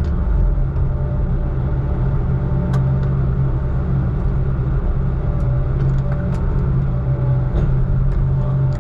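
Heavy diesel engine running steadily: a low, even drone with a few light ticks.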